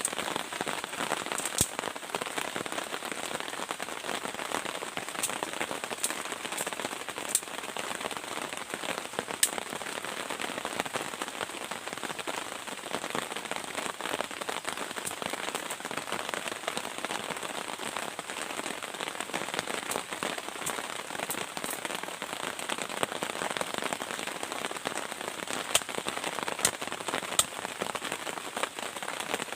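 Steady rain, with scattered sharp drop impacts.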